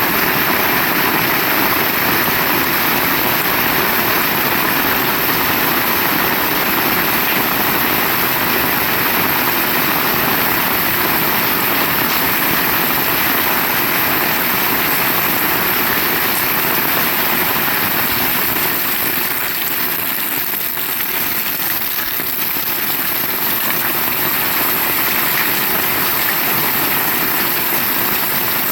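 Heavy rain falling steadily, a dense even hiss, easing a little about two-thirds of the way through.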